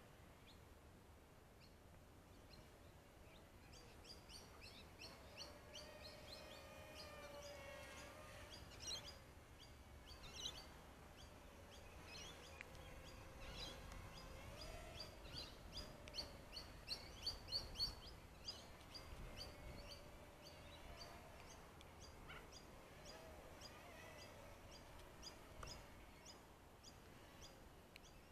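Faint birdsong: many quick chirps mixed with wavering, gliding whistled notes, loudest a little past the middle, over a low wind rumble.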